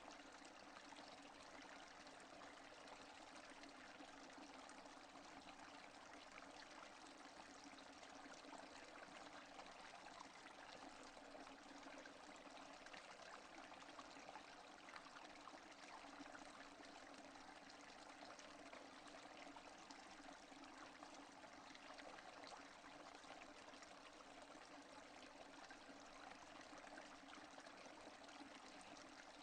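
Steady rain falling, a faint, even hiss of many small drops with no thunder.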